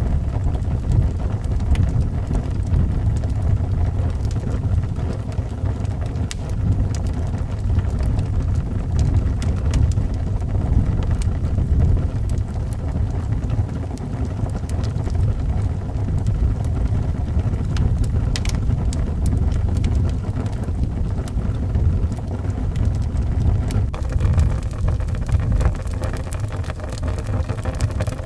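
Strong wind howling steadily, a dense low rumble, with sparse faint crackles from a wood fire.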